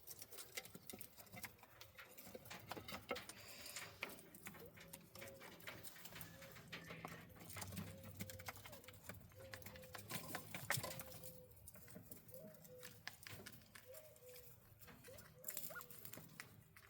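Quail in an aviary pecking and scratching, making many small taps and clicks, with soft short peeps repeating about once a second from about five seconds in.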